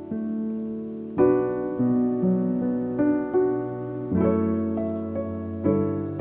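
Background music: solo piano playing a slow, gentle tune, chords and notes struck about once a second and left to ring.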